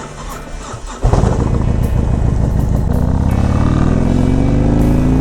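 Harley-Davidson Road Glide Ultra's Milwaukee-Eight 107 V-twin engine pulling away, suddenly louder about a second in, then rising steadily in pitch as the bike accelerates through a gear.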